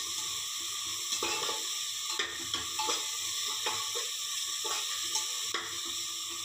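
Onion and ginger-garlic-chilli masala paste sizzling in oil in a pressure cooker. A metal spatula scrapes and taps against the pot in irregular strokes as the mixture is stirred.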